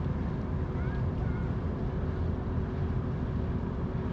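Boat engine running steadily with a low rumble and a steady hum. A few short bird chirps about a second in.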